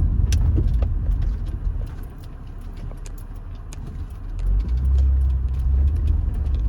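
Car driving, a low road rumble that eases for a couple of seconds mid-way and then swells again about four and a half seconds in, with scattered light ticks and clicks.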